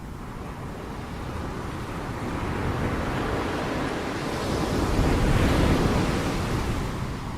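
Ocean waves crashing: a rushing surge of surf that builds over a few seconds, is loudest about five to six seconds in, then eases off.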